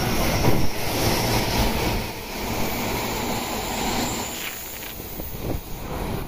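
Hanshin Railway 8000 series electric train passing through the station at speed without stopping: a steady rush of wheels on rail with a few clacks, loudest about half a second in as the front cars go by, easing near the end as the last car clears.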